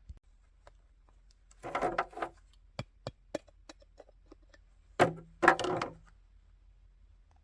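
Handling sounds while a chainsaw's chain oil reservoir is refilled: scattered sharp clicks and knocks, with two short clusters of louder clunks about two seconds in and again about five seconds in.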